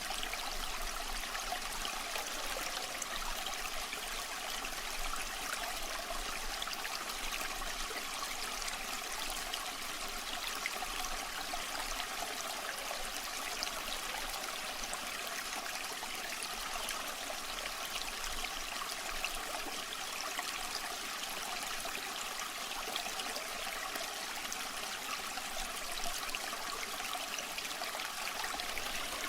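Water running steadily in a small stream, a continuous even rushing and trickling.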